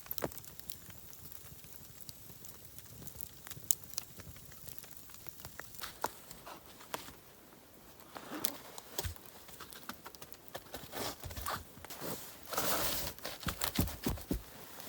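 Faint scattered ticks and pops, then louder rustling and crinkling of handling or movement about eight seconds in and again from about twelve seconds.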